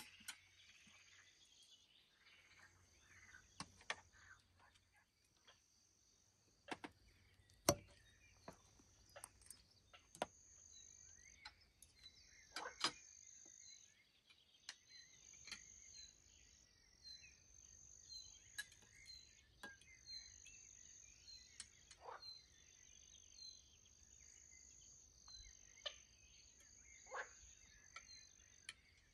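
Faint night insects trilling high and steady, breaking off every few seconds, with a run of evenly spaced short chirps in the second half. Scattered light clicks and taps sound over it, the loudest about eight and thirteen seconds in.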